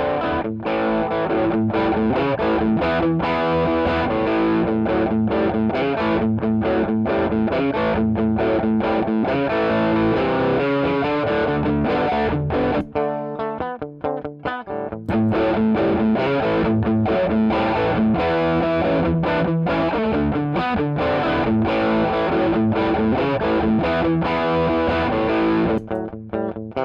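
Distorted electric guitar played through a ThorpyFX Gunshot V2 overdrive pedal: a Stratocaster into a Line 6 DT25 amp, played continuously at heavy gain. The playing drops back for about two seconds near the middle, then comes back in louder.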